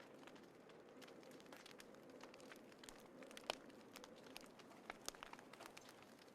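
Small wood fire crackling softly: irregular sharp pops over a steady low hiss, with one louder pop about three and a half seconds in.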